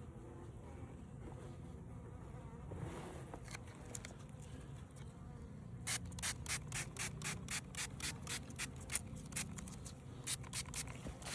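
Honeybees buzzing around an open hive. About six seconds in, a hand spray bottle of sugar syrup starts spritzing them in quick hissing squirts, about four or five a second, with a short pause near the end before it starts again.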